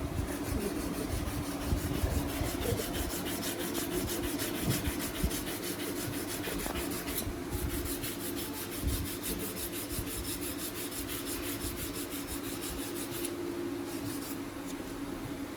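Rubber tyre tread being cut or rasped to renew its grooves: a fast, even scraping rhythm over a steady hum. It breaks off briefly about halfway and stops a couple of seconds before the end.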